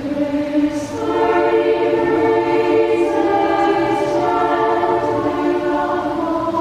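Women's choir singing held chords in several parts. The sound swells about a second in, and the notes move every second or so.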